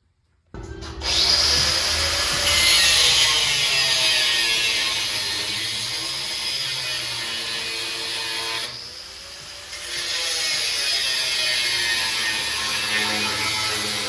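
A power tool running almost continuously, loud and harsh, easing off briefly a little past the middle before picking up again.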